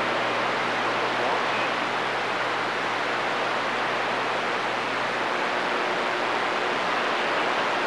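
Steady hiss of static from a CB radio receiver on an open channel between transmissions, even and unchanging, with a faint thin tone under it.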